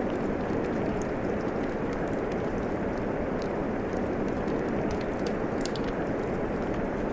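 Steady falling rain mixed with a fireplace crackling, with irregular small pops and snaps over the even wash of the rain.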